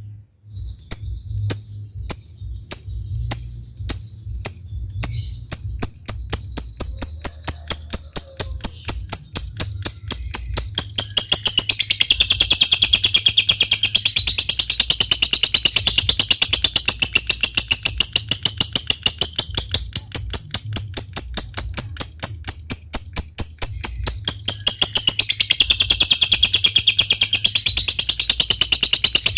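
Lovebird "ngetik": sharp single ticks, slow at first and speeding up over about ten seconds, then running into a long, continuous high-pitched chattering trill ("ngekek panjang"), which eases for a moment about two-thirds of the way through and picks up again.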